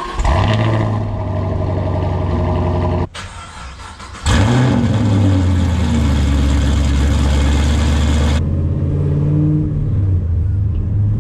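Car engine idling loudly. After a cut, about four seconds in, the 2010 Camaro SS's 6.2 L LS3 V8 fires up with a rising rev flare and settles into a steady idle. Near the end the sound softens to the engine heard from inside the cabin as the car moves off.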